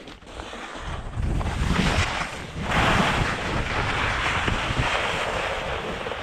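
Skis hissing over snow with wind rushing across a helmet-mounted action camera's microphone, a steady noise that builds about a second in and grows louder and brighter nearly three seconds in.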